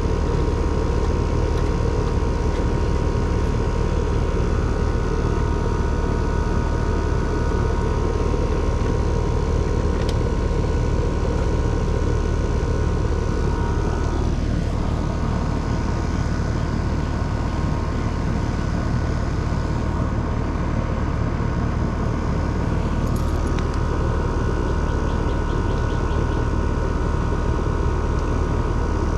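Central air-conditioner outdoor condensing unit running steadily, its compressor and condenser fan making a constant hum with a few steady higher tones above it.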